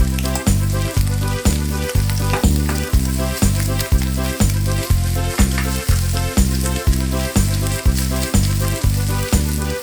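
Bacon and shredded potatoes sizzling in hot oil in a frying pan, under background music with a steady low beat of about two a second.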